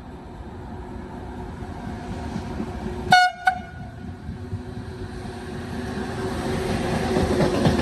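A train approaching with a rumble that grows steadily louder. About three seconds in, its horn gives a short, high-pitched blast, followed at once by a second, briefer toot.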